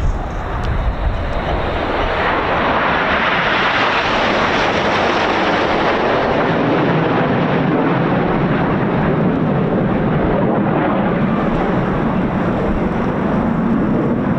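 Red Arrows BAE Hawk T1 jets flying past: steady jet engine noise that builds over the first few seconds, then deepens toward the end, with wind rumbling on the microphone.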